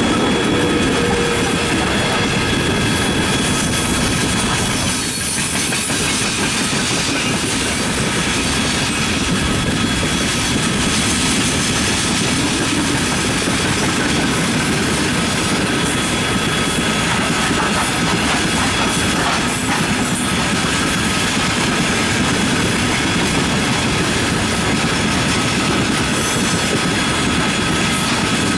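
Freight train's open-top gondola wagons rolling past as the train pulls out, a steady loud rumble and clatter of steel wheels on the rails. A thin, steady high tone runs underneath.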